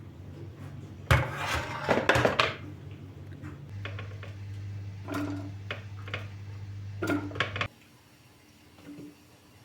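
Dishes and utensils clattering and clinking in a kitchen, loudest in a burst during the second and third seconds, then a few shorter clinks. Under it a steady low appliance hum runs and cuts off suddenly about three-quarters of the way through.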